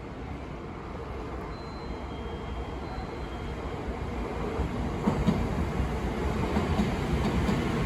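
Shinkansen train approaching through the station, a rumble of wheels on rail growing steadily louder, with faint ticks from about five seconds in.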